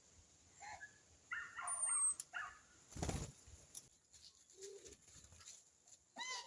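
Small birds at a fruit-and-seed feeding tray giving short chirps and calls, with a brief burst of wing flapping about three seconds in and one louder call near the end.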